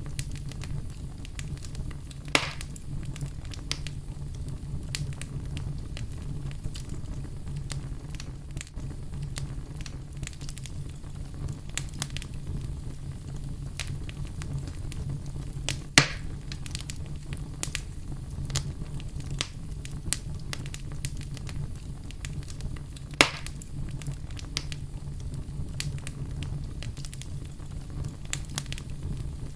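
Wood fire in a fireplace crackling, with many small snaps over a steady low rumble of the flames. Sharper, louder pops come about two seconds in, around the middle and about three-quarters through; the one in the middle is the loudest.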